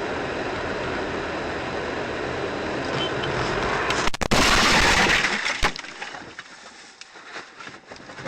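Steady vehicle and road noise, then, about four seconds in, a louder noisy burst lasting a second or so, followed by scattered clicks and knocks.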